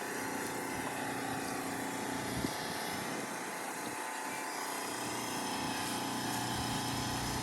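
Pressure washer's small gas engine running steadily, a constant engine hum under a broad hiss.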